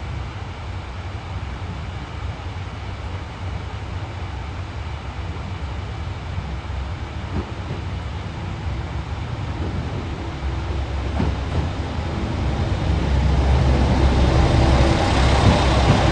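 JR Shikoku 2000 series diesel railcars pulling into a station: a low diesel engine rumble and running noise that grow louder over the last few seconds as the train draws near.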